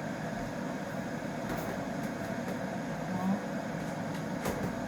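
Steady low hum of indoor background noise, with a couple of light clicks near the end.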